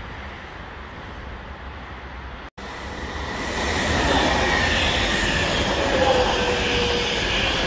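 Italo high-speed electric train passing close by at speed: wheel and rail noise swells from about three seconds in to a loud steady rush, with a high whine that falls slightly in pitch as it goes by. A momentary dropout in the sound a little after two seconds.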